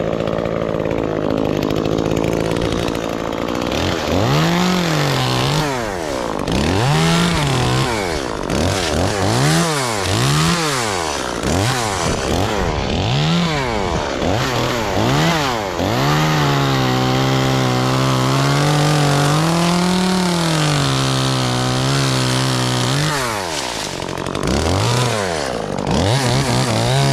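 Two-stroke gasoline chainsaw idling, then revved up and down over and over, about once every second and a half. From about sixteen seconds in it is held at high revs for some seven seconds, drops back, and is revved again near the end.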